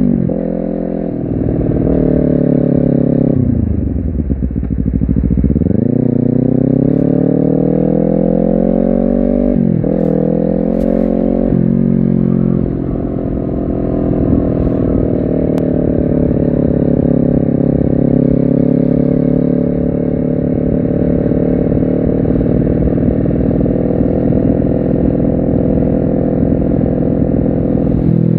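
Honda CBR250RR parallel-twin engine and exhaust under way: the revs fall away and climb back, break twice in quick succession as it shifts up about ten and twelve seconds in, then hold a fairly steady note.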